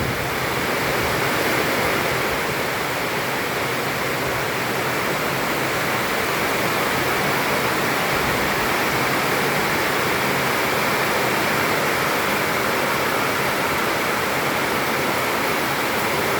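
Heavy rain falling steadily, a constant even hiss of water.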